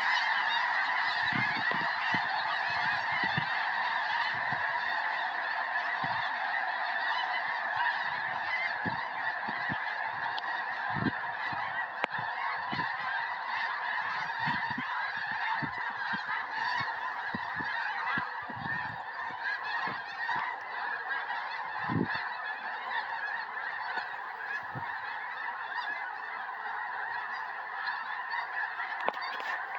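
A large flock of snow geese calling all at once, a dense, continuous chorus of honks, with occasional brief low thumps underneath.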